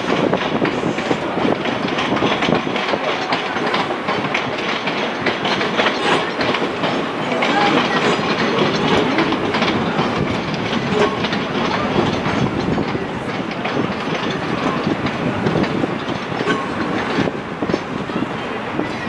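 ScotRail passenger multiple-unit train moving along the tracks below, its wheels clattering over rail joints and points in rapid clicks over a steady rumble.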